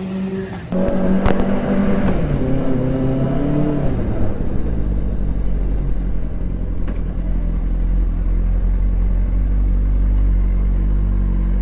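Benelli TNT 600i's four-cylinder engine revving up about a second in, then dropping in pitch and settling into a steady low note from about four seconds in.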